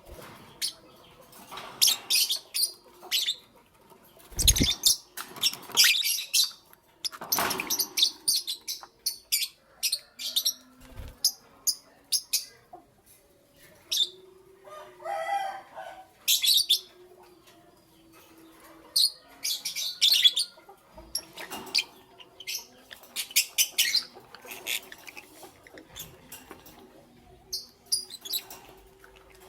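Lovebirds chirping in clusters of short, shrill, rapid chirps, with a lower call about midway and a couple of brief low thumps.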